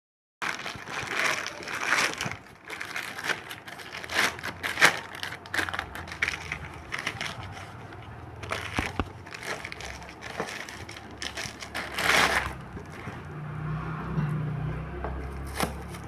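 Irregular crinkling and crackling of something being handled, with sharp crackles scattered through it and a faint low hum in the second half.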